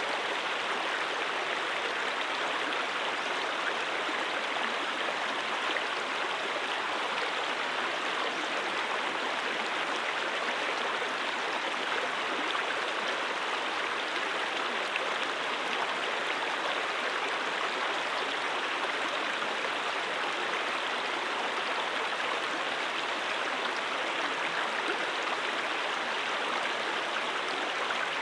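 A brook flowing steadily, an even, unbroken rush of running water.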